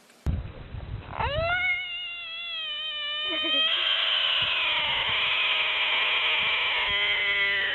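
An animal's long, drawn-out cry that rises at first and is then held steady in pitch for several seconds, with a lower cry near the end.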